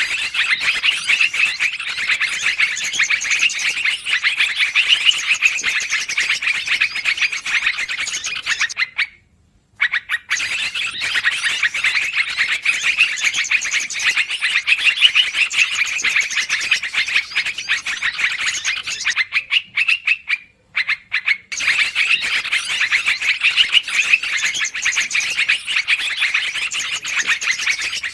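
Bird-lure recording of yellow-vented bulbuls (trucukan) calling noisily. It is a dense, rapid chatter that repeats in stretches of about nine seconds, broken by two short silences about ten and twenty seconds in.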